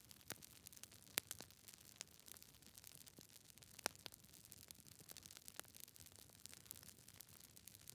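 Wood fire crackling in a fireplace: irregular sharp pops and snaps from burning logs over a faint hiss, with the loudest pops about a second in and again near four seconds.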